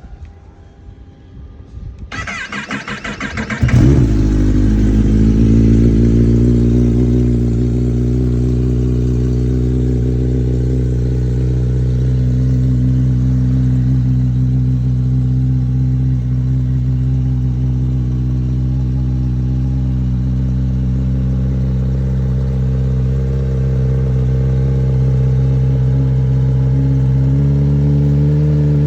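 Kawasaki ZX-10R's inline-four engine on a cold start: the starter cranks for about two seconds before the engine catches, then it settles into a steady fast cold idle. Near the end the idle steps up slightly in pitch.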